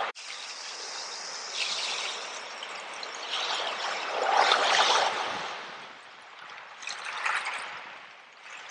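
Ocean waves washing ashore, the surf swelling and easing in several surges, the loudest about halfway through and a smaller one near the end.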